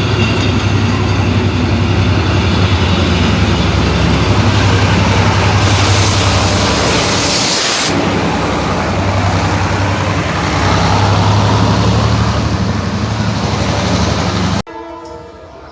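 A train at a railway station with its engine running loudly and steadily with a low hum, and a loud hiss lasting about two seconds around the middle. Near the end the sound cuts off abruptly to a much quieter background.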